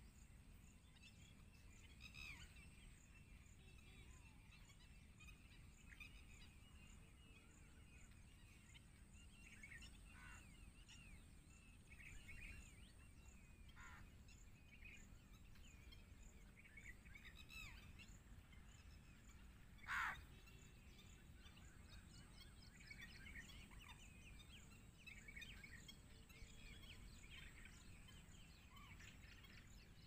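Faint bird chirps scattered throughout over a low background rumble, with one louder brief call sliding down in pitch about two-thirds of the way through.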